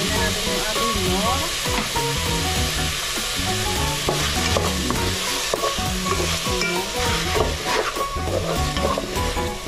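Chicken strips and carrots sizzling as they sauté in an aluminium pot, stirred with a wooden spatula. The spatula's scrapes and light knocks against the pot come more often from about halfway through.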